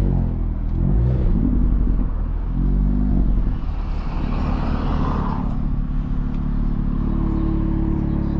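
Turbocharged 2.0-litre four-cylinder engine of a 400 bhp tuned Volkswagen Golf R, rising in pitch in a couple of short pulls in the first few seconds, then running at a steady drone.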